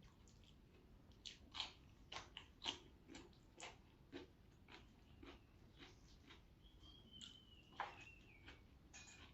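Close-up chewing and biting: irregular short crunches and mouth clicks of someone eating raw and fried vegetables with rice, busiest in the first half.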